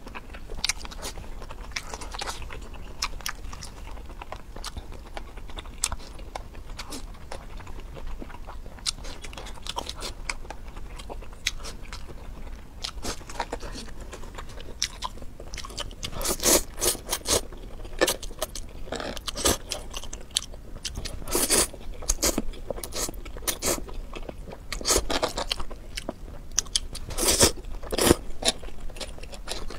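Close-miked mukbang eating sounds: a person chewing mouthfuls of spicy instant noodles, with many sharp, wet mouth clicks. The clicks become louder and more frequent about halfway through.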